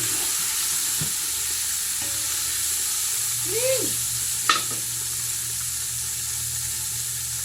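Hot oil sizzling steadily as food fries in a pan, with a sharp click or knock about four and a half seconds in.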